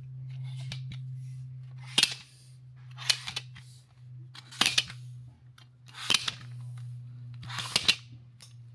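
Five sharp snaps, about one and a half seconds apart, each with a short hiss after it, over a steady low hum.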